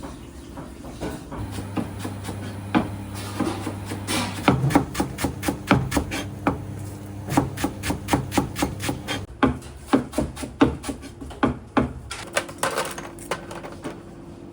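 Kitchen knife chopping on a wooden cutting board: a run of quick, uneven chops, about three a second, starting about four seconds in and stopping shortly before the end, over a low steady hum.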